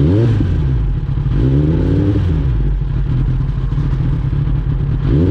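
Kawasaki ZX-10R inline-four engine idling, with the throttle blipped three times so the revs rise and fall back: once at the start, once about a second and a half in, and again near the end.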